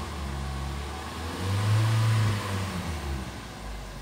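Hyundai ix35 2.0-litre four-cylinder engine revving in park, heard from inside the cabin. It is held at about 3,000 rpm, rises a little louder about one and a half seconds in, then drops back toward the end.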